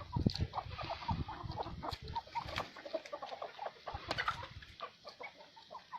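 Domestic hens clucking, many short calls one after another, busier in the first half.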